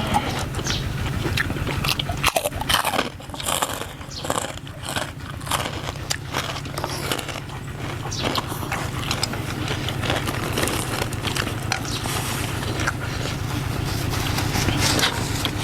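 Close-miked chewing with many sharp crunches, the sound of biting into crispy pork rinds, over a steady low hum.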